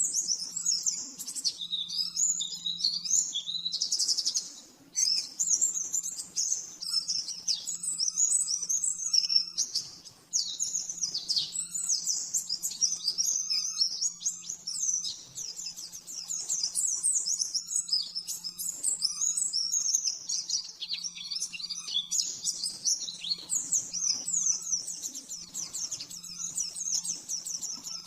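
White-eye (pleci) singing a fast, continuous high twittering song in long runs, with short breaks about five and ten seconds in; a faint steady low hum sits underneath.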